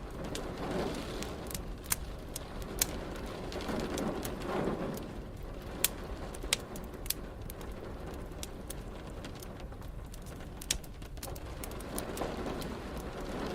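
Wood fire crackling, with sharp pops scattered through, over a steady hiss of rain. A low rumble swells and fades a few times.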